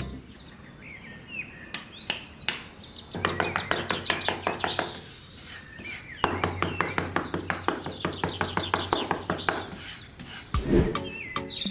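Birds chirping. Twice, for a few seconds each, a fast, even run of rasping strokes over a low hum comes in, like a small tool working on wood, and it is louder than the birds.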